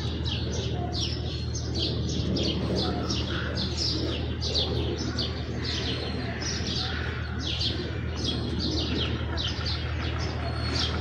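A flock of house sparrows chirping, many short overlapping chirps in a steady chatter, over a steady low hum.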